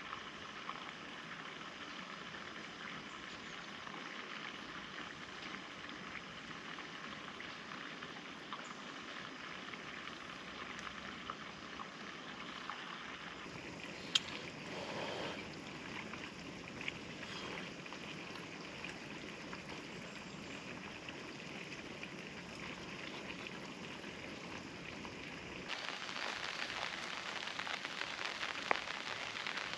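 Steady rain falling, with scattered individual drops ticking on a surface; the rain gets louder near the end.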